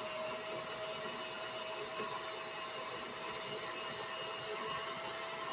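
Electric mixer running steadily with an even whir, creaming softened butter and cream cheese together for frosting.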